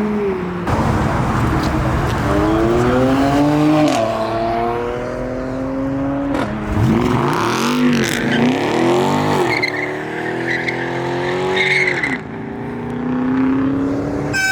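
Modified performance car engines revving hard and accelerating, the pitch climbing and dropping back several times through gear changes, with one car sweeping past about seven to nine seconds in. A steady rushing noise lies under the engines throughout.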